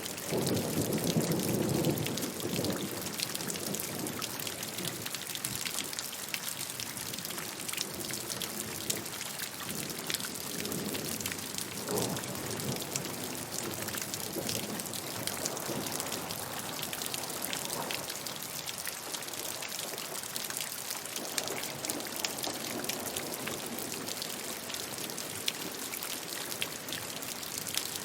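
Steady rain falling: an even hiss with a dense patter of drops. A low rumble swells in the first two seconds and then fades.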